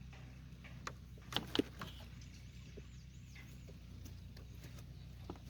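Faint handling noises, a few light clicks and taps in the first couple of seconds, over a steady low hum, with a faint quick series of about four high chirps around the middle.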